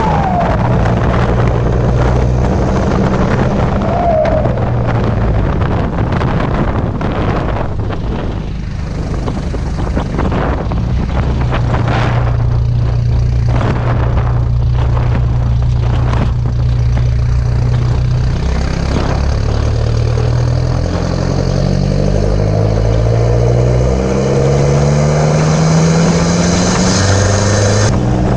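Nissan Pathfinder's exhaust note through a 3-inch stainless exhaust, the engine running with a steady low drone. About two-thirds of the way in, the note climbs in steps as the engine revs rise.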